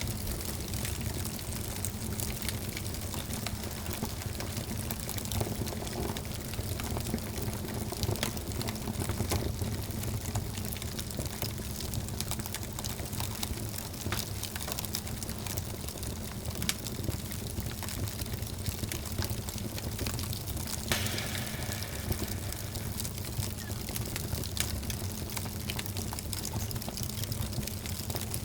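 Wood fire burning in a fireplace: steady crackling with frequent small pops over a low rumble of the flames.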